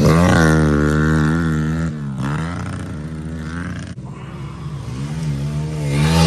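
Small single-cylinder pit bike engine revving, its pitch climbing and dropping repeatedly, with abrupt breaks about two and four seconds in.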